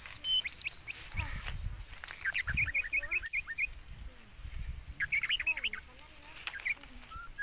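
Birds chirping and calling: quick falling whistles, then a rapid run of chirps about two seconds in and another burst of calls near five seconds, with a few low thumps among them.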